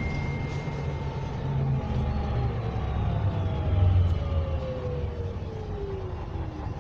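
Interior sound of a MAZ-104 city bus driving, its YaMZ-236M2 V6 diesel engine rumbling low and swelling briefly about four seconds in. A thin drivetrain whine falls steadily in pitch through most of it.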